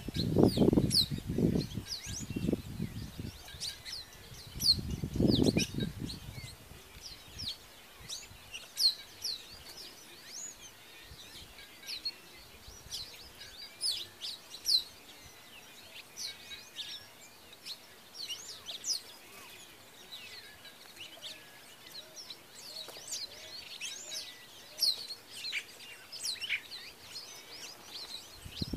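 Several wild birds chirping and calling, many short high chirps overlapping throughout. During the first six seconds a low rumbling noise sounds over them, louder than the birds.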